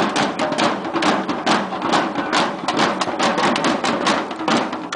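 A dense, uneven run of sharp bangs and knocks, several a second, over a steady din.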